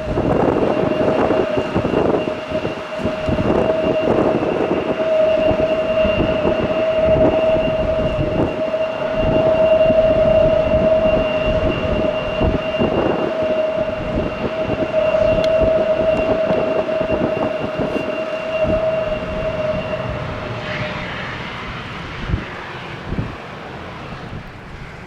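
Embraer 175's General Electric CF34 turbofan engines whining at taxi power, a steady high whine in two pitches over a rough jet rumble, with wind gusting on the microphone. The whine dies away about twenty seconds in.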